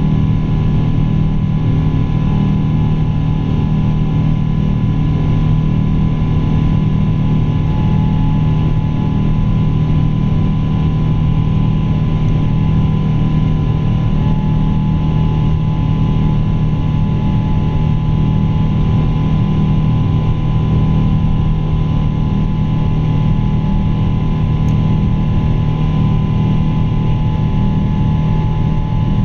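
Pratt & Whitney PW4000 turbofan engines of a Boeing 777-200 running steadily under power: a constant low drone with a few steady high tones over it.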